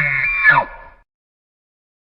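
The end of a long animal call, rising in pitch and then breaking off with a quick downward slide about half a second in. Silence follows.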